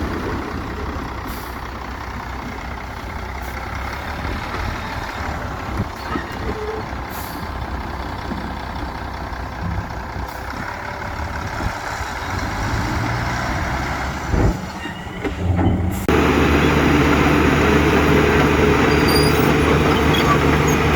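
Heavy diesel engines of dump trucks and a bulldozer running. About three-quarters of the way through there is a thump, then an abrupt change to a louder, steadier engine sound.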